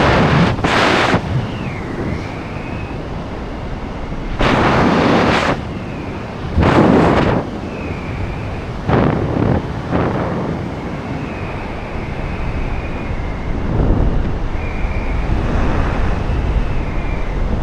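Rushing wind buffeting the microphone during a skydive, swelling in several hard gusts over a steady roar.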